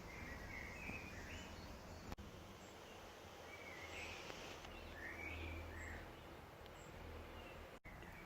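Faint garden birdsong: scattered short chirps and warbled phrases from songbirds, over a low steady background hum.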